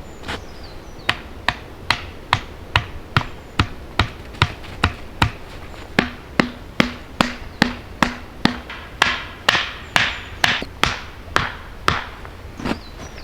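Rapid, evenly paced blows of a hand tool, about two and a half strikes a second, with a short ringing note after several of the strikes near the middle.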